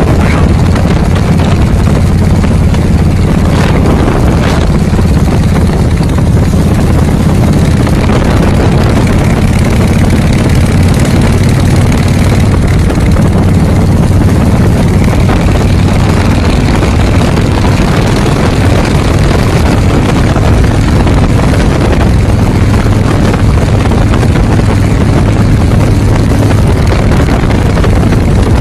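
Harley-Davidson motorcycle engine running loudly and steadily with a deep, even note.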